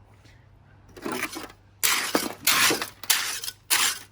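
Metal shovel scraping and grating through pebbly ballast: about six gritty strokes in a steady rhythm, starting about a second in.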